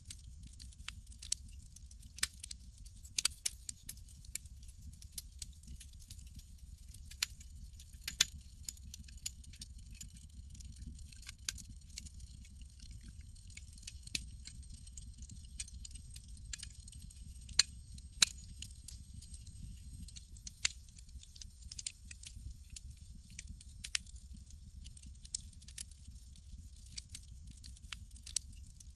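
Campfire crackling: sharp, irregular pops and snaps over a low steady rumble, with a few louder snaps along the way.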